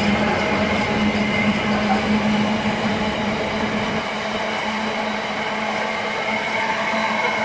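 Container flat wagons of an intermodal freight train rolling past on the near track: a steady noise of wheels on rail with a steady low hum, easing slightly about four seconds in.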